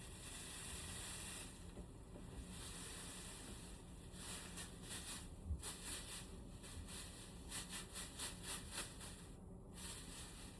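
Sprayer hissing in on-and-off bursts while cleaning a room air conditioner, with a quick run of short spurts in the second half.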